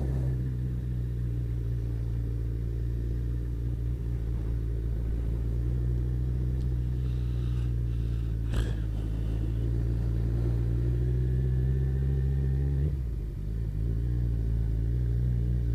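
Kawasaki ZZR1400's inline-four engine running steadily at cruising speed. Its note slowly rises, then dips briefly near the end. There is a single sharp click about halfway through.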